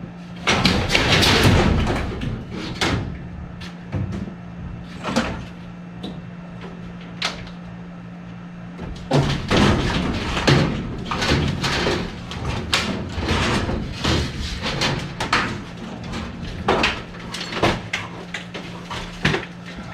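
Sheet-metal panels and parts of an old HVAC unit being pulled and pried apart by hand: a run of knocks, clanks and scrapes, busiest about a second in and again from about nine seconds on. A steady low hum sits underneath, dropping out around nine seconds and coming back near the end.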